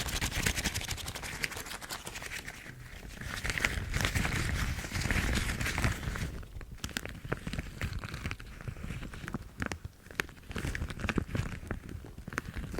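Yellow rubber household gloves being rubbed and handled close up, a dense crinkling crackle of rubber against rubber. It swells into a fuller rustle midway through, then thins to scattered clicks with a brief lull near the end.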